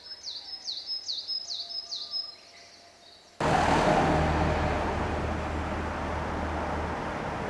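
High chirping calls, a quick falling note repeated about three times a second, for the first two seconds. About three seconds in, an abrupt cut to a loud, steady rushing noise with a low hum under it.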